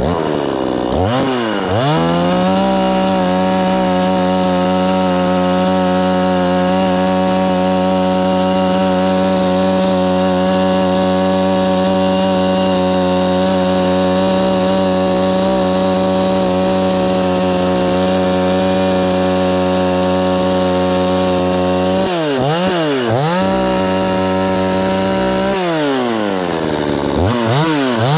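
XtremepowerUS two-stroke gas chainsaw running at full throttle, cutting wood at a steady, high engine pitch. Near the end the engine speed drops and climbs back twice as the throttle eases off and opens again.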